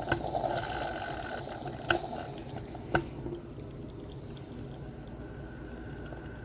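Drip coffee maker brewing: hot water gurgling and spurting through a filter basket that is overflowing, which the owner puts down to coffee ground too fine. A few short sharp clicks cut through, near the start and about two and three seconds in.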